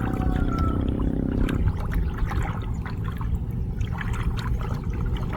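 Water trickling and splashing from a gill net being handled in a flooded rice field, with many small clicks and drips. A low steady hum cuts off abruptly about a second and a half in.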